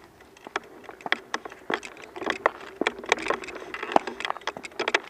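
Irregular crunching and crackling of footsteps on a trail strewn with dry leaves and twigs, many sharp snaps over a rough rustle.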